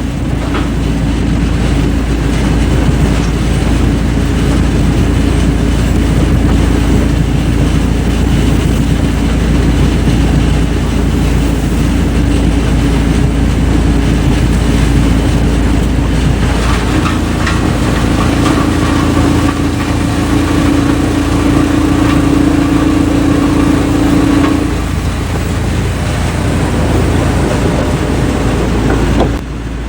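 Heavy machinery running loudly and steadily with a constant drone; the sound shifts about a third of the way before the end and again near the end.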